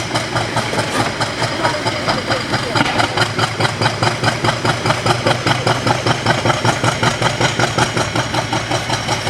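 English Electric 16CSVT V16 diesel engine of a Class 50 locomotive idling, with a steady rhythmic beat of about five pulses a second.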